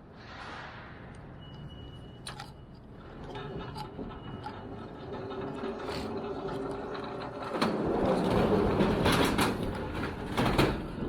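Machinery running during pallet loading, with a steady hum and scattered knocks. It grows louder and rattles from about eight seconds in.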